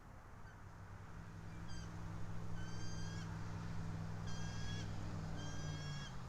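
Bald eagle calling: a few faint short notes, then three drawn-out, high, level-pitched calls, over a low steady hum.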